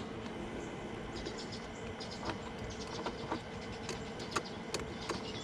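Channel-lock pliers working a radiator hose clamp: a few scattered sharp clicks as the jaws slip on the clamp, over a faint steady background hum.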